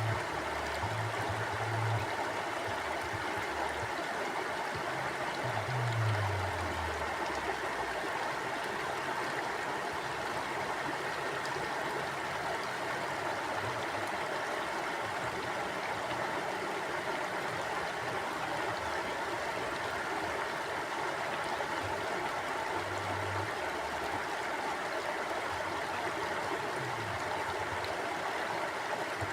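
Mountain stream flowing: a steady, even rush of water. A few brief low rumbles come in near the start and twice more later.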